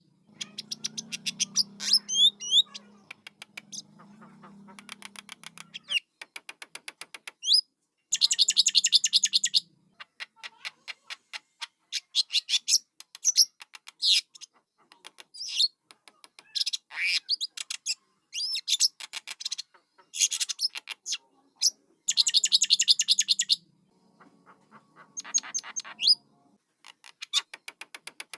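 Jalak (starling/myna) chicks calling: repeated bouts of rapid, harsh chattering, each a second or two long with short gaps between, mixed with a few short whistled notes.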